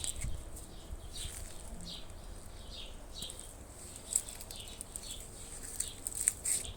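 Small birds chirping: short high notes that dip in pitch, repeated roughly every half second, with a few sharp clicks and a low rumble of wind underneath.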